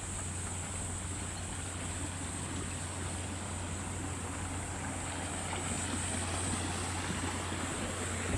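Steady outdoor ambience: an even rushing noise with a continuous high-pitched insect chirring over it and a low hum underneath.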